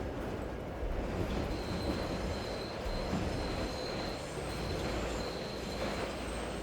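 Train rumbling past, with a thin high wheel squeal that sets in about a second and a half in and wavers on and off over the steady low rumble.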